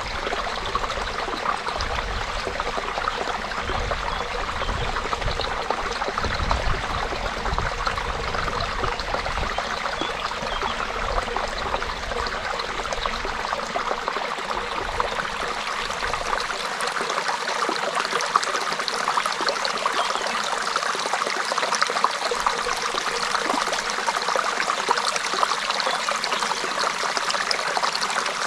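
Creek water flowing and trickling steadily. Irregular low rumbles run under it for the first half and stop a little past the middle.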